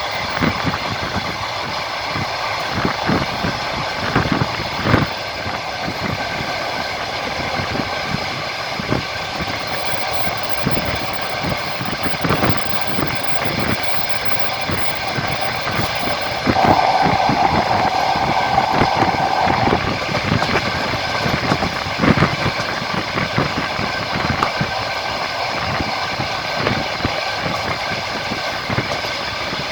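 A moving train heard from its window: wheels clatter over rail joints with many short knocks above a steady rolling noise. A steady tone sounds for about three seconds a little past the middle.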